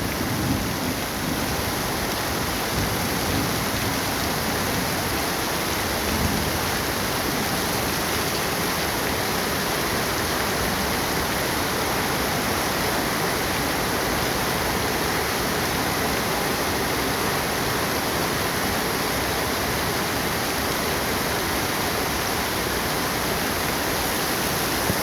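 Heavy rain pouring down steadily in a summer downpour. A low rumble of thunder fades out in the first second, and a faint one comes about six seconds in.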